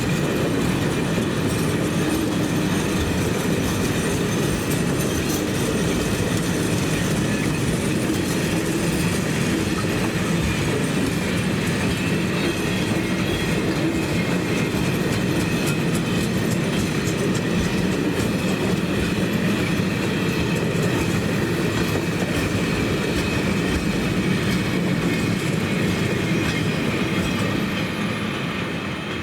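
A train rolling past on the rails, steady and loud, beginning to fade away near the end.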